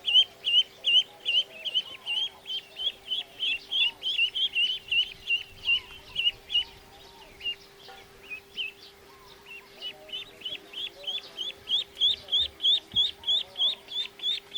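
Ducklings peeping: a quick run of short, high peeps, about four or five a second, that thin out for a few seconds midway and then pick up again.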